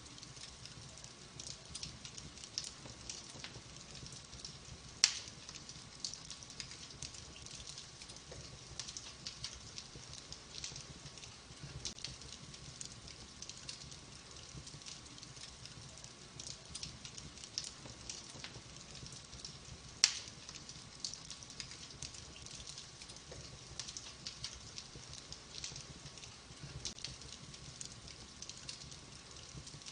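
Wood fire in a fireplace crackling steadily, with a constant stream of small crackles over a soft hiss and two sharp, loud pops about five seconds in and again about twenty seconds in.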